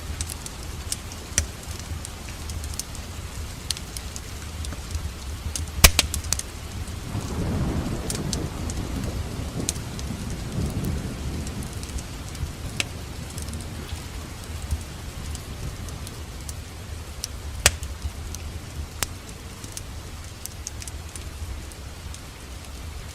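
Steady rain mixed with a crackling wood fire, with sharp pops standing out twice. A low rumble swells about seven seconds in and fades by about twelve.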